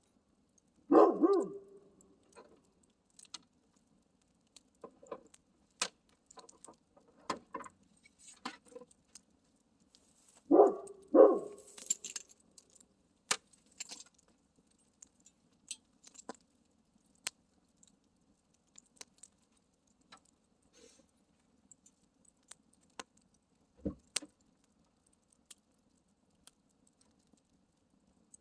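Wood campfire crackling with scattered sharp pops, and a dog barking: once about a second in, then twice in quick succession around eleven seconds in. The barks are the loudest sounds.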